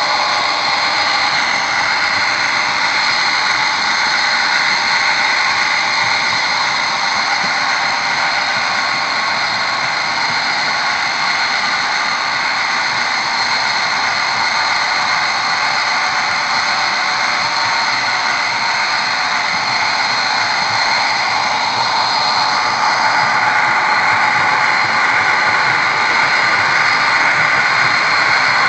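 HO scale model GP40 and GP38 diesel locomotives running steadily with a coal train, giving a continuous mechanical drone that gets a little louder about 23 seconds in.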